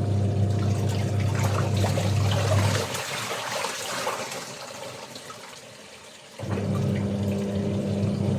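Water running and splashing during laundry washing, with a steady low electric motor hum that cuts out about three seconds in and starts again near the end.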